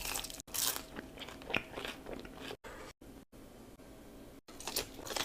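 Close-miked biting and chewing of a crunchy breaded fried chicken tender. Crisp crunches come in the first two seconds or so and again near the end, with quieter chewing and a few abrupt silent gaps between.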